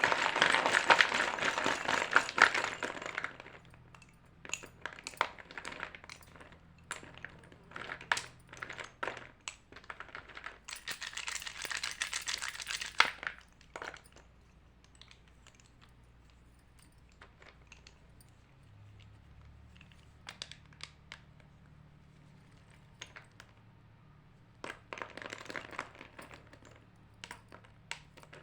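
White chalk crunching and crackling in three loud spells: at the start, around the middle, and near the end. Scattered sharp cracks come between them, with a quieter stretch after the middle spell.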